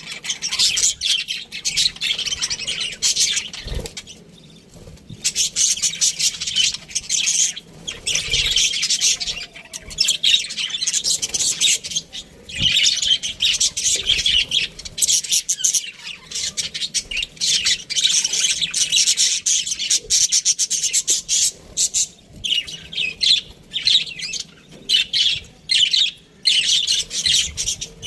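A flock of budgerigars chirping and chattering, many birds at once, with a brief lull about four seconds in.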